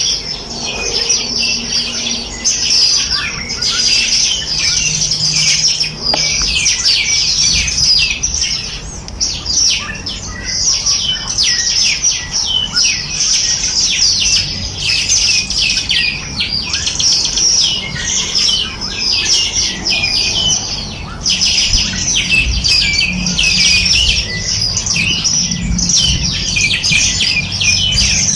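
A dense chorus of many small songbirds chirping and trilling continuously, with quick high notes overlapping each other.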